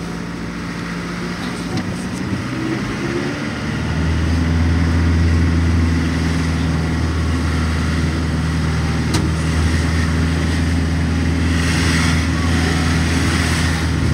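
Engine of the vehicle being ridden in, heard from inside the cabin: a steady low drone that grows louder about four seconds in.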